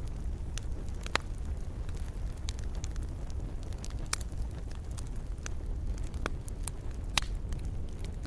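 Wood campfire crackling: irregular sharp pops and snaps over a low, steady rumble of the burning fire. The loudest pop comes about seven seconds in.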